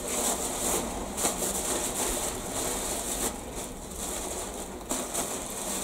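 Water sprinkled onto damp leaves packed in a plastic bin sack, giving a steady hissing patter that swells and dips a little.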